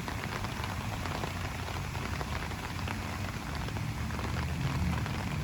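Steady outdoor noise: a fine crackling patter over a low, fluttering rumble, with no single event standing out.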